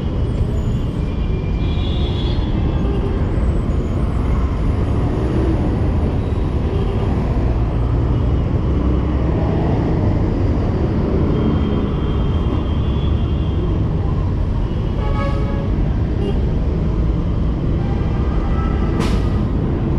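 Steady city street traffic noise with a heavy low rumble. A brief pitched sound comes about fifteen seconds in, and a sharp click near the end.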